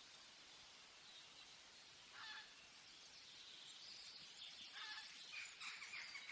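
Faint bird calls over steady forest background hiss: a short call about two seconds in, another near five seconds, then a quick run of repeated notes near the end.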